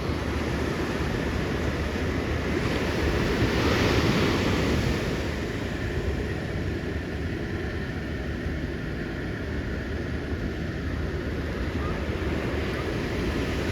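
Ocean surf: a wave breaks and washes in, loudest about three to five seconds in, over a steady rush of surf with wind on the microphone.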